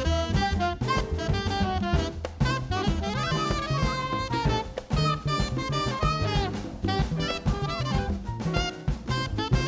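Live jazz band playing, with a saxophone carrying a busy melodic line of quick runs over drum kit and low accompanying notes.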